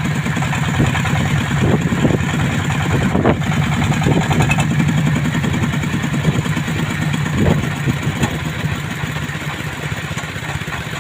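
Small engine of a jet boat running steadily at low speed, with a few short knocks over it.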